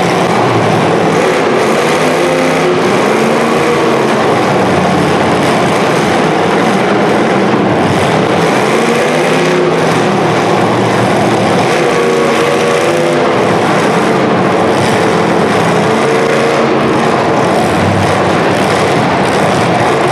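Several demolition derby cars' engines revving hard over a constant loud din, their pitch rising and falling again and again.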